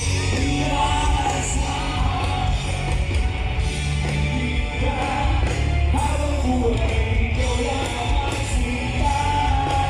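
Live rock band playing with a singer over a loud, bass-heavy sound system.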